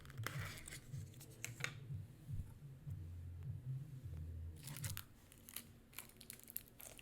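Faint scattered clicks and crackles of food packaging being handled, in two short clusters, over a low steady hum.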